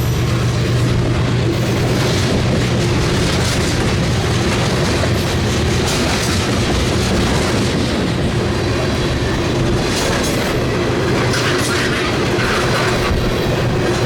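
Train passing at close range, railcar wheels clattering over the rails in a steady, loud rumble.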